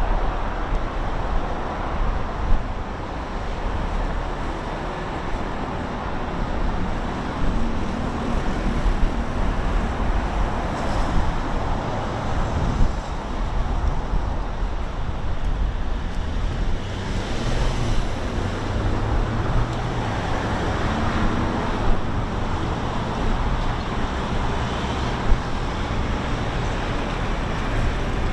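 Steady road traffic noise with a low rumble, as vehicles pass now and then, twice more loudly partway through.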